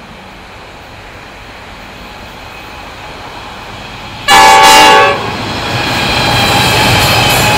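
Diesel freight train led by NR class locomotives approaching, its rumble slowly growing. About four seconds in, the lead locomotive sounds one loud, short horn blast of several tones together, under a second long. The locomotives' engines and wheels then pass close by.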